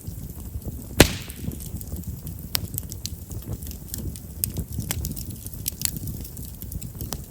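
Chestnut firewood burning in an open fire: a low steady rumble of flames with frequent sharp crackles, and one loud pop about a second in. Chestnut's large vessels make it prone to popping.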